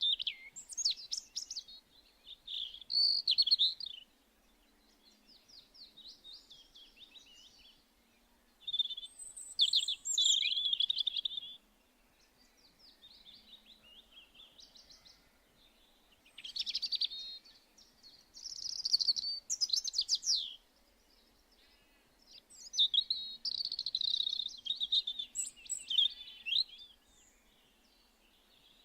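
Songbird song in varied high phrases of two to four seconds each, separated by short pauses, some phrases loud and close and others fainter.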